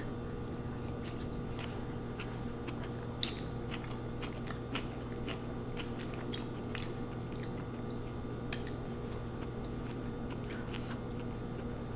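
Close-miked chewing of lo mein noodles and vegetables: scattered soft crunches and wet mouth clicks.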